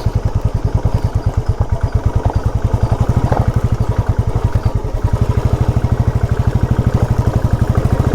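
Motorcycle engine running steadily at low revs, its exhaust beat a fast, even pulse, as the bike rides slowly over a rough dirt track.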